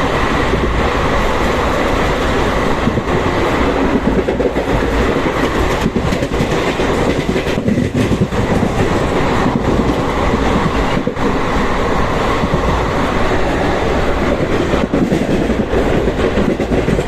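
Express passenger train passing close by at speed: its coaches rumble and rattle, with wheels clattering over the rail joints.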